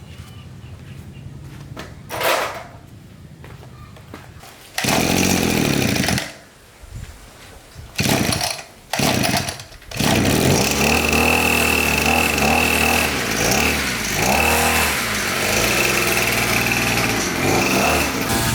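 Small petrol lawn mower engine starting: it fires briefly three times and dies, then catches about ten seconds in and keeps running, its speed rising and falling, with a steady high whine over it.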